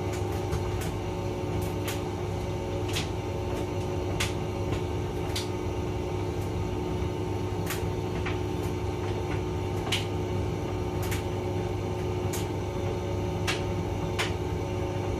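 Hotpoint vented tumble dryer running: a steady motor and drum hum with a few constant tones, and sharp irregular clicks and taps through it.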